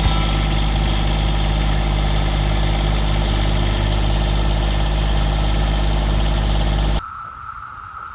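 An engine idles steadily, then cuts off abruptly about seven seconds in, leaving the steady drone of cicadas singing.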